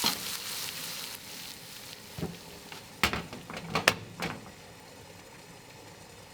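Food sizzling in a frying pan, fading after the first seconds, with a handful of sharp clicks and knocks of utensils against the pan around the middle.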